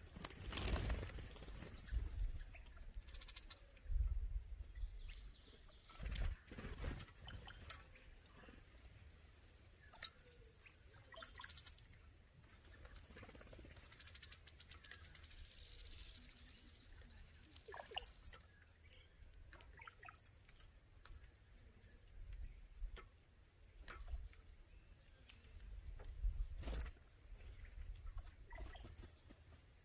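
Outdoor birds giving short, very high chirps every few seconds, with scattered soft knocks and low thumps in between.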